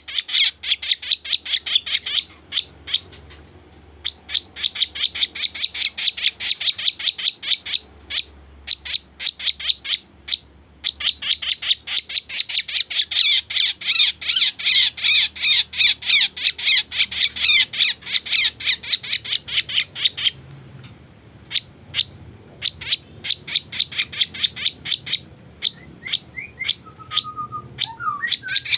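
Kaso-kaso bird lure call: long runs of rapid, sharp, high chattering notes, several a second, broken by short pauses. A few brief whistled notes come near the end.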